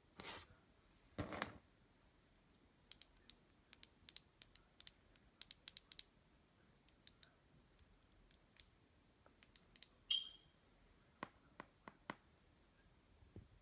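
Cloud slime being handled, with two soft rustles in the first two seconds, then many sharp, irregular clicks and crackles in clusters and a brief squeak about ten seconds in.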